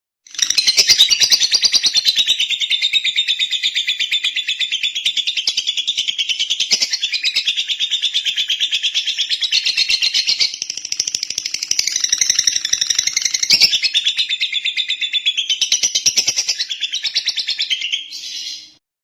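Lovebird singing one long, unbroken burst of very fast, high-pitched chattering. It starts just after the opening and stops shortly before the end.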